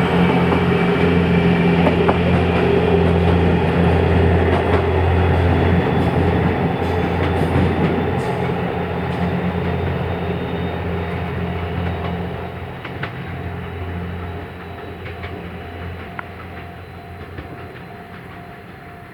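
Series 87 Twilight Express Mizukaze diesel-hybrid train running slowly past with a steady low engine drone and a few clicks from its wheels on the track. The drone fades away over the last several seconds as the train moves off.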